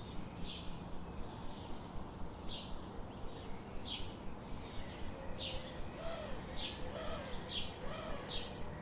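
Birds chirping: short, high, falling chirps repeated about once a second. From about six seconds in, a lower call rises and falls three times.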